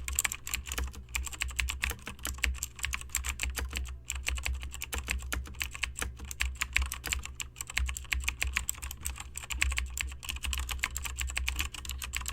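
Rapid, irregular clicking or ticking, many clicks a second, over a low fluctuating rumble.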